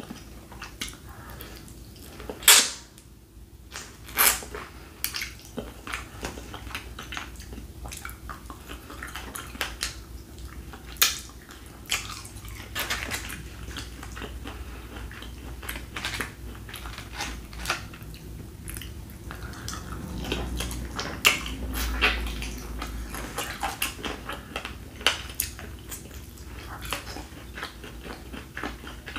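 Close-miked chewing and mouth sounds of someone eating sauced smoked chicken wings: irregular wet smacks and clicks, a few sharp loud ones in the first few seconds, over a faint steady hum.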